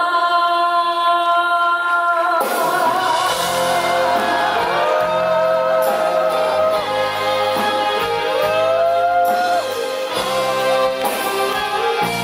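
Live music in a hall: a female singer holds a long, wavering note, then a full band with bass and percussion comes in about two seconds in and plays on under further held notes.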